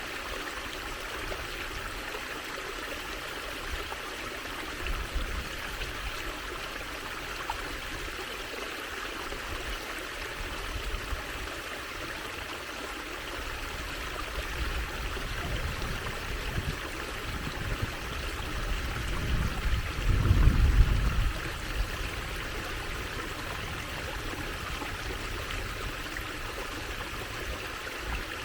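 Water trickling and running steadily, with a low rumble that swells about two-thirds of the way in and then dies away.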